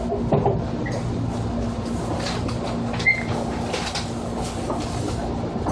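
Interior sound of a JR 205 series electric train: a steady rumble with a constant hum and a few small clicks and rattles.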